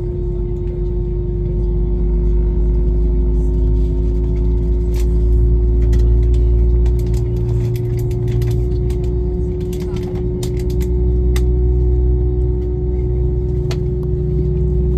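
Airbus A321 cabin noise on the ground: a steady jet-engine hum over a deep rumble, with scattered clicks and rattles from the cabin fittings.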